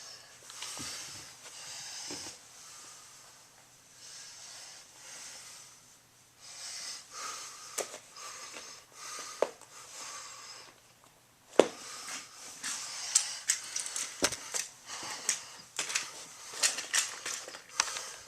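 Close handling noises from toy train props: soft breathy rustling in short patches, then a run of sharp clicks and rustles from about twelve seconds in.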